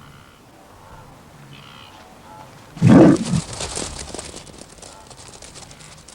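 Lioness giving a sudden loud, low snarl about three seconds in, followed by a rough crackling noise that fades over a couple of seconds.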